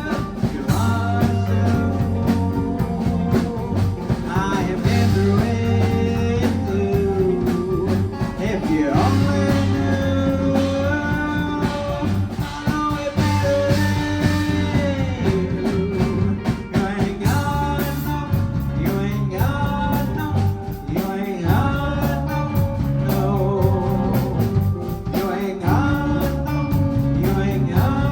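A live rock band playing a song, with guitar, a steady bass line and drums.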